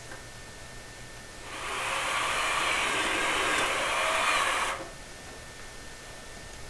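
Power drill driving a sheet-metal screw into a flue pipe joint. It runs steadily for about three seconds, starting about a second and a half in and stopping abruptly.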